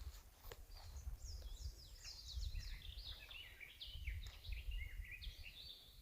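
A songbird singing a rapid run of short, high, down-slurred notes that starts about a second in and carries on for about five seconds, with a low rumble underneath.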